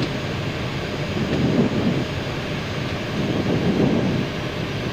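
Steady rushing flight-deck noise inside an Airbus A319 on final approach, with gear down and flaps at full.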